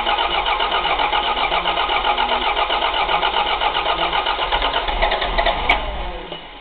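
Toyota Celica GT4's freshly rebuilt 3S-GTE turbo four-cylinder being cranked over by the starter motor in a rapid, even rhythm on its first start attempt, without catching. The cranking stops with a click about five and a half seconds in, and the sound dies away.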